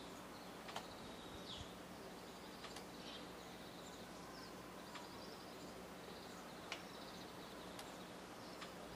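Faint, scattered short chirps of small birds calling out of sight, with three sharp clicks.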